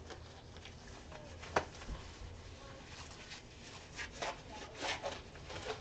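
Quiet handling of sealed trading-card boxes on a table: scattered soft rustles and light knocks, with one sharp tap about one and a half seconds in.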